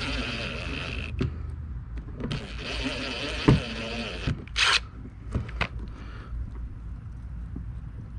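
Handling noise as a part is worked back into place by hand: two stretches of scraping and rubbing, scattered knocks and clicks with a loud sharp knock about three and a half seconds in, and a short hissing burst just after four and a half seconds.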